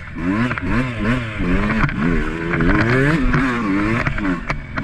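Enduro dirt bike engine revving up and down over and over as it climbs over logs on the trail. Its pitch swells and drops about five times, with a few sharp knocks near the end.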